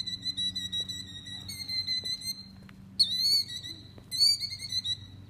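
Killdeer alarm-calling: a long run of high, shrill trilling notes, then two louder, sharper calls about three and four seconds in, each trailing off into a trill. These are a parent bird's alarm calls with its nest of eggs under threat.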